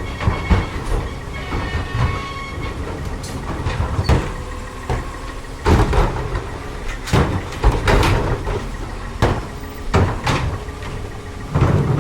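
Garbage truck working its route: the engine runs under a string of loud metallic bangs and clunks from the carts, tippers and hopper, with a thin steady whine during the first few seconds.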